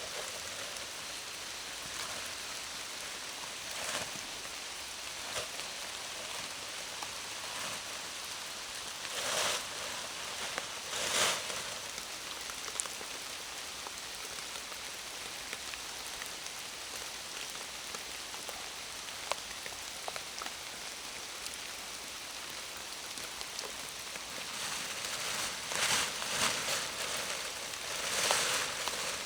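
Steady heavy rain falling in a forest, an even hiss of drops on leaves and surfaces. A few brief louder rushes stand out, about ten seconds in and again near the end.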